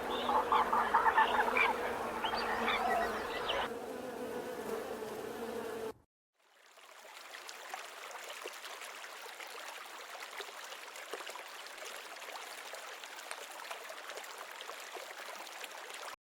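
A steady insect-like buzz with short chirps over it, cut off about six seconds in; after a brief silence comes an even hiss with many faint crackles that stops just before the end.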